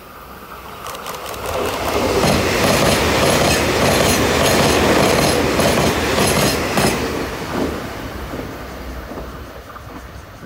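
Puyuma Express electric tilting train passing through at speed without stopping. The rush of the train builds over a couple of seconds, comes with a quick run of wheel clicks over the rail joints, then fades away.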